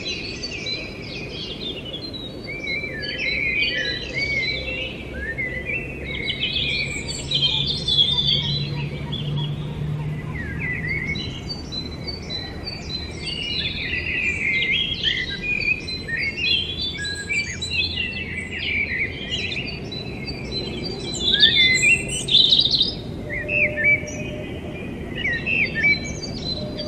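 Many small birds chirping and singing in quick, overlapping calls, over a faint low hum. A steady tone comes in near the end.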